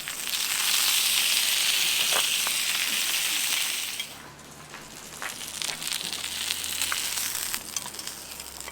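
Paella pan sizzling hard over a campfire, loud for about four seconds and then settling into a quieter sizzle with scattered crackles; the paella is being cooked further because the chicken is still undercooked.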